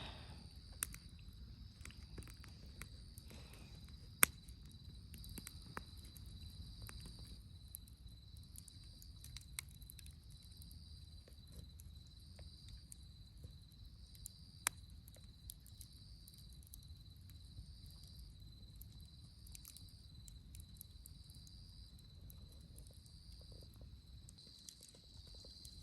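Campfire wood crackling with scattered small clicks and two sharp pops, over an insect's high trill repeating in steady pulses.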